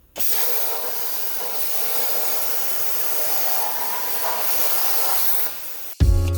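CNC plasma table torch cutting sheet steel: a steady, loud hiss that starts abruptly and cuts off about five and a half seconds in. Music with a heavy beat starts just after.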